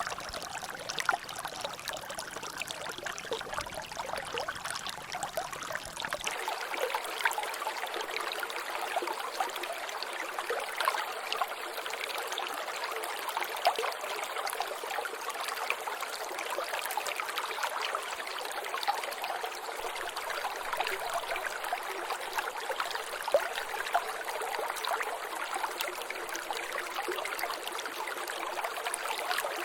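Water trickling and dripping in a small natural drainage channel: a steady run of water with many small drops and splashes. A faint low rumble under it drops away about six seconds in.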